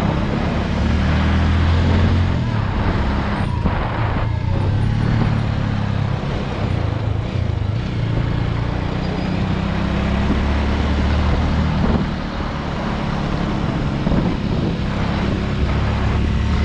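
Motorcycle engine running under way, its pitch shifting as the revs change, with steady wind and road noise.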